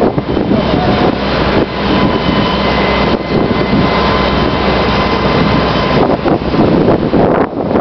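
A vehicle engine running steadily under heavy, gusting wind noise on the microphone during a wind storm.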